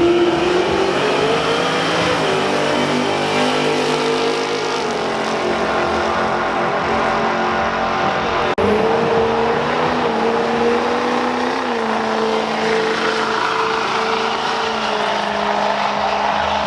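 A car engine held at high revs, its note rising a little and then holding steady. It breaks off abruptly about eight and a half seconds in, and another high-revving engine note carries on.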